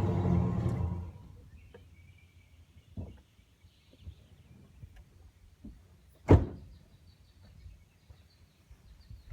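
Half-ton pickup's engine idling through its stock muffler and catalytic converters, then shut off about a second in. After a few faint clicks comes a single loud thunk about six seconds in.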